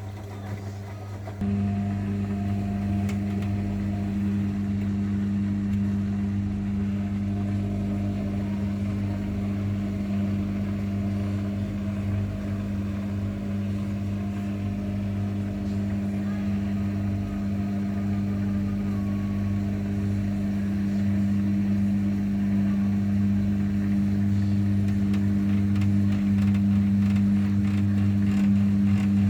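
Zanussi washing machine running with a steady motor hum that steps up in level about a second and a half in and grows slightly louder toward the end.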